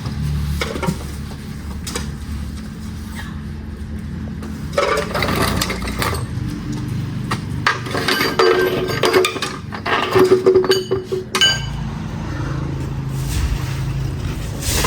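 Metal parts and tools clinking and clattering, with a few short ringing clinks, over a steady low hum.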